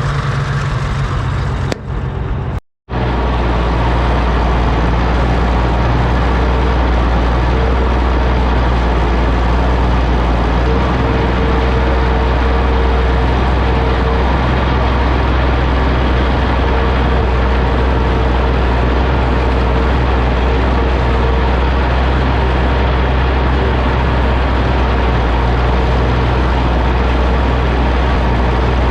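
Oliver OC-6 crawler tractor's engine running steadily, a constant low drone with a faint steady whine above it. The sound cuts out briefly about three seconds in and then resumes unchanged.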